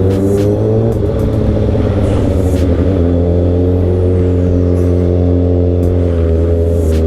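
Motorcycle engine running under way, its pitch climbing slightly in the first second, dropping about three seconds in, then holding steady.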